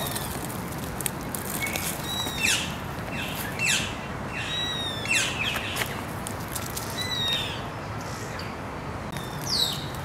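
Birds calling: a scattered series of short chirps that slide downward in pitch, over steady background noise.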